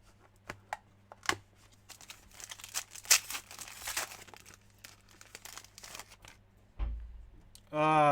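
Wrapping being torn and crumpled off a sealed box of trading cards, with scattered clicks and a dense crackling stretch in the middle. A low thump comes near the end, then a brief voice sound.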